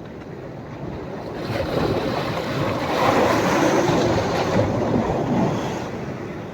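Sea waves breaking on a sandy beach: one wave rushes in, swelling about a second in, loudest midway, then washing back and fading near the end.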